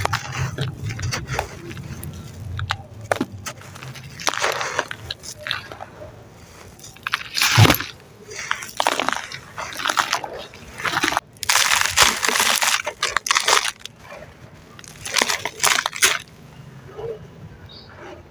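Gritty sand-cement chunks crushed and crumbled by hand, crunching in a run of bursts with short pauses between them.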